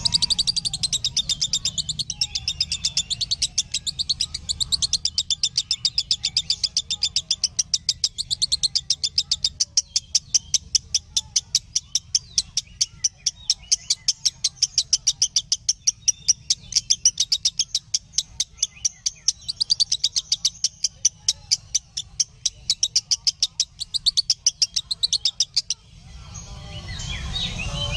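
Lovebird singing a long, rapid string of high chirps, about four to five a second, with a brief pause near the end.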